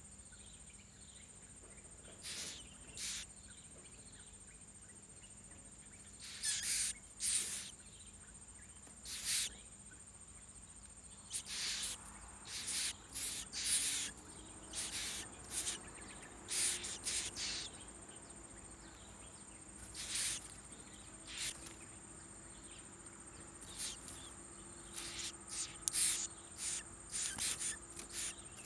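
A nestling bird giving short raspy calls in irregular bursts, sparse at first and more frequent after about ten seconds, over a steady high-pitched insect drone.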